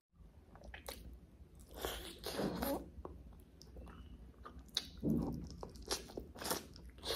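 Close-up mouth sounds of a person eating butter chicken and rice: irregular bursts of chewing and biting, with a fresh bite taken near the end.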